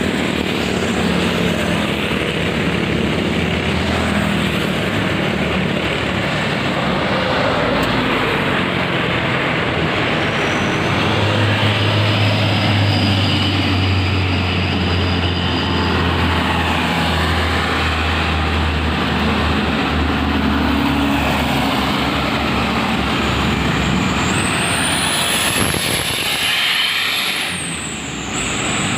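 Heavy trucks running past on a road: continuous engine and tyre noise, with a deep engine drone that swells in the middle as a truck goes by.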